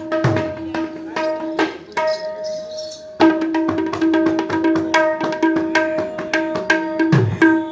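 Mridanga, a double-headed barrel drum, played solo in a quick rhythm: ringing strokes on the treble head, all at one pitch, with deep bass strokes that sag in pitch near the start and near the end. The playing grows louder and busier about three seconds in.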